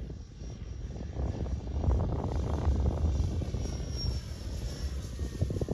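Electric motor and propeller of a large RC scale model Westland Lysander in flight, a faint high whine that grows louder about two-thirds through, over wind rumbling on the microphone.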